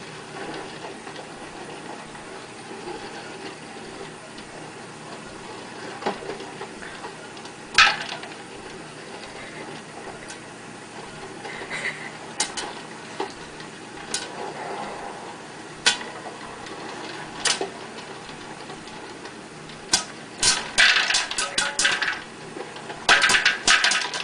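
Scattered sharp clicks and light clattering of small hard objects over a low, steady background hiss. The clicks come one at a time at first and crowd together into a busy clatter near the end.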